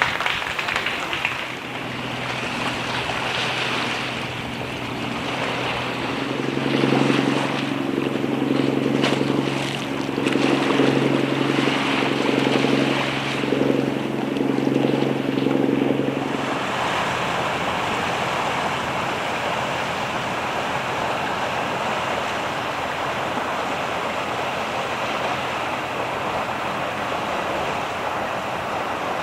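Sea waves washing with wind noise on the microphone. Through the middle, for about ten seconds, a steady low hum with several pitches sounds over the surf and then cuts off suddenly.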